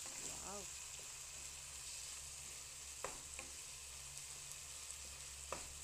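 Ground pork with chopped onion, tomato and garlic sizzling steadily in a nonstick frying pan while being stirred with a wooden spatula. A few light clicks of the spatula against the pan about three seconds in and again near the end.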